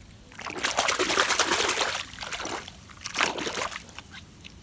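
Water sloshing and splashing as a muddy toy vehicle is washed by hand, in bursts: a long one over the first couple of seconds, then two shorter ones.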